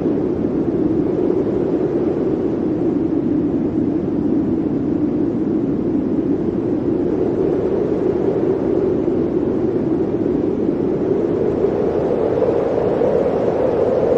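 Blizzard wind blowing steadily in a dense rushing noise, its pitch sinking a little in the middle and rising again near the end.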